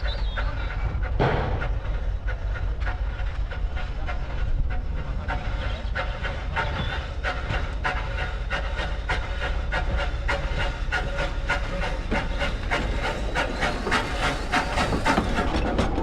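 Andrew Barclay steam locomotive running along the line: a steady low rumble under a rapid, uneven run of clicks and knocks from the wheels and running gear, growing busier in the second half.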